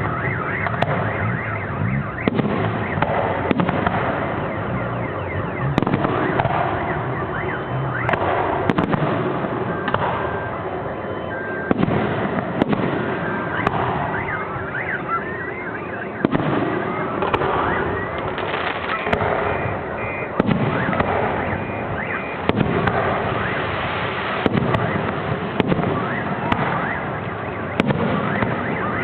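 Fireworks display: aerial shells bursting with a bang every second or two over continuous crackling, with a few rising whistles near the middle.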